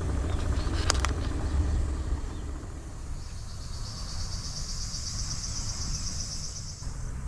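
A low rumble, like a passing vehicle, fades over the first few seconds. Then a high, rapidly pulsing insect trill runs for about four seconds and stops suddenly.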